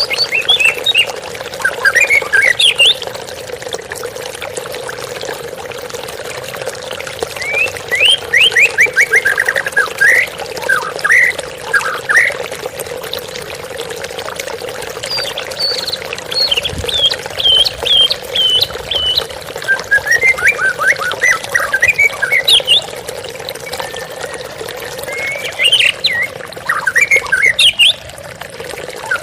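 A murai (Copsychus songbird) sings in repeated phrases of clear whistles and rapid runs of notes, with short pauses between phrases, over the steady rush of a waterfall and flowing stream water.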